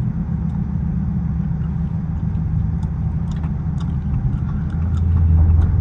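Dodge SRT 392's 6.4-litre HEMI V8 running while driving, a steady low rumble heard from inside the car, swelling louder about five seconds in.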